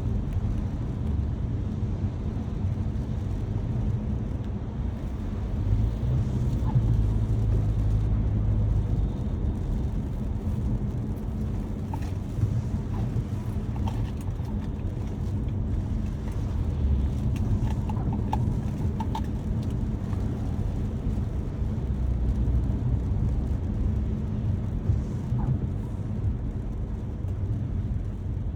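Car driving on a wet road: a steady low rumble of engine and tyres that swells for a few seconds early in the clip, with a few faint clicks.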